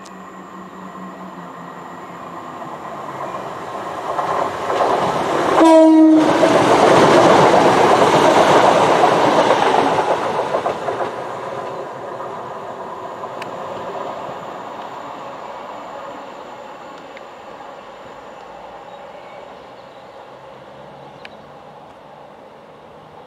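A train sounds a short horn blast about six seconds in and passes at speed, its rushing rail noise loudest for a few seconds just after the horn, then slowly fading away.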